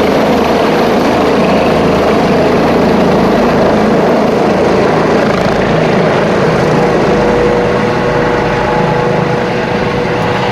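ADAC rescue helicopter's turbine engines and rotor running, loud and steady, with a thin steady whine joining in about two-thirds of the way through.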